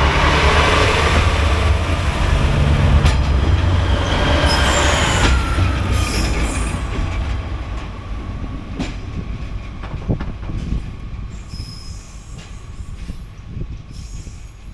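Train on heritage track passing and running away. It is loud for the first few seconds, then fades steadily, with a thin steady wheel squeal and a few sharp clicks from the wheels on the rails.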